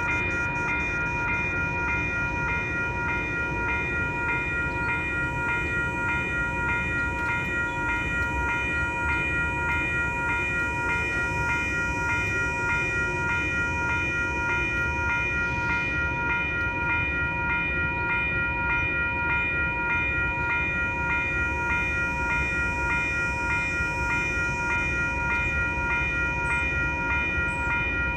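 Level crossing warning bells ringing continuously, about two strikes a second, over a steady low rumble.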